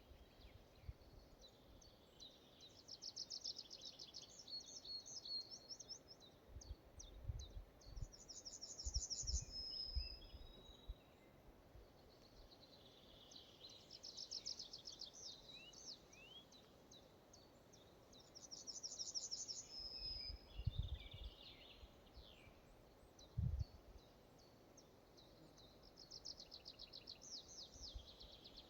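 A songbird singing in a forest, repeating fast, high trilled phrases of a few seconds each, about five times, over a faint steady hiss. A few low thumps come in between the phrases.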